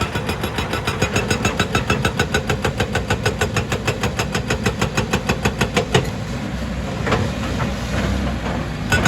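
Excavator-mounted hydraulic rock breaker hammering rock at about eight blows a second over the excavator's running engine. The hammering stops about six seconds in, leaving the engine running, and starts again near the end.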